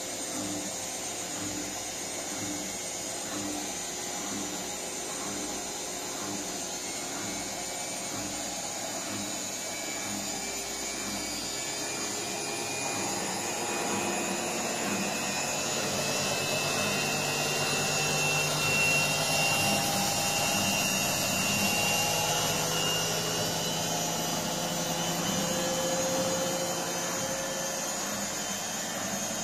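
Electrolux EWS 1076 front-loading washing machine on its spin cycle, the drum turning with a rhythmic swish that gives way about halfway through to a louder, higher steady whine as the spin builds. Its bearings are freshly replaced and it runs without bearing rumble.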